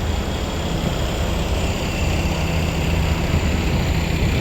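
Volvo D11 six-cylinder diesel engine in a 2020 Volvo VNR day cab idling steadily with a low, even rumble.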